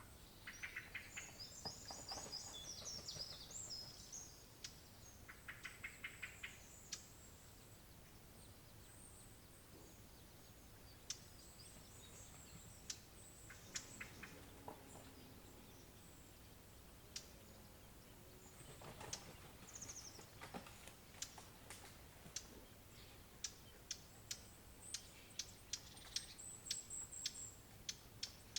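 Hard ticking alarm calls of an agitated bird, most likely a blackcap, given as single sharp clicks at irregular intervals that come thicker and faster over the last few seconds. Short bursts of high twittering come in about a second in, at around six seconds and again at around nineteen seconds.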